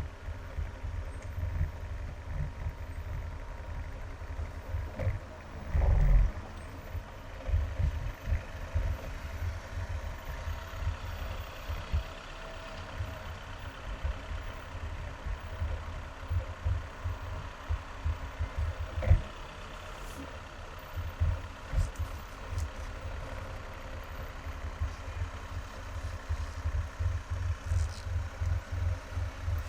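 Car driving in highway traffic: a steady low rumble of road and engine noise with frequent irregular low thumps, a louder bump about six seconds in and a short sharp knock around nineteen seconds.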